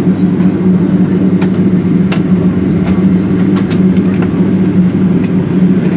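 Steady low cabin hum inside a Boeing 777-200ER parked after landing, with a few faint clicks over it.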